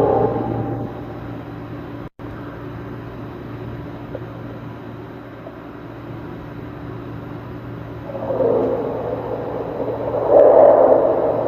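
A low, steady drone of several held tones, the kind of unexplained 'strange sound' said to come from the sky. It swells twice, about eight seconds in and again, louder, near ten seconds, and cuts out for an instant about two seconds in.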